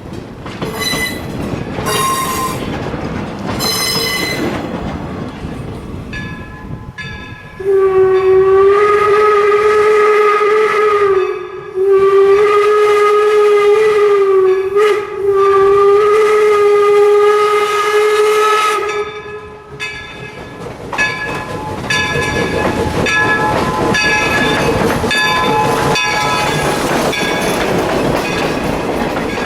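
4-4-0 steam locomotive's whistle blowing three long, nearly joined blasts on one steady pitch, over the noise of the train running. Afterwards a ringing strikes repeatedly, about once a second, as the train keeps running.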